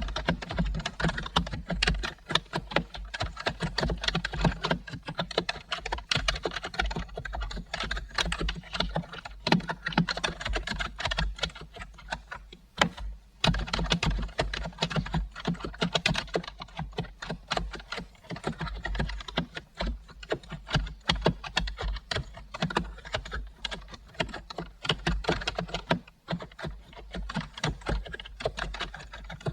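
Continuous typing on a computer keyboard: a fast, irregular run of keystrokes with a brief pause a little before halfway.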